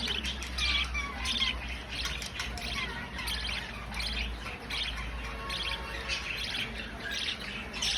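Budgerigars chirping and squawking in a rapid, continuous run of short calls, typical of a budgie hen feeding her chick.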